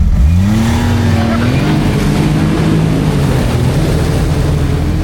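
Snowmobile engine throttled up suddenly: its pitch climbs over the first second or so and again a little later, then it runs loud and steady at speed.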